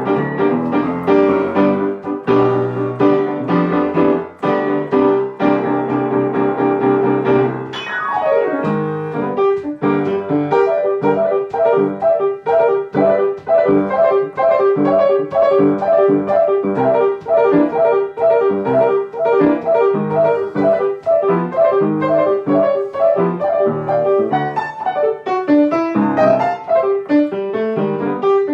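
Solo piano playing an instrumental break in a pop-jazz song. Full chords give way about eight seconds in to a quick descending run, then to fast repeated chords over one note struck again and again.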